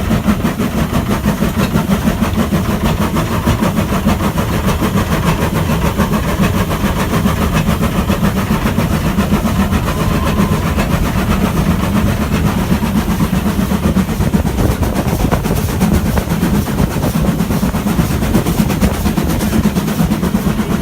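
Railway locomotive running steadily, a loud continuous sound with a strong low hum and a fast, even beat.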